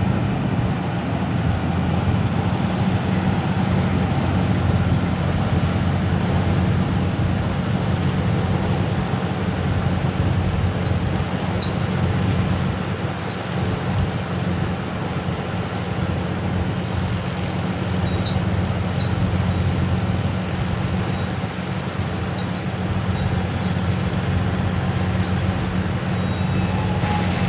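Combine harvester running steadily while harvesting wheat: a constant, even engine hum with no change in pitch.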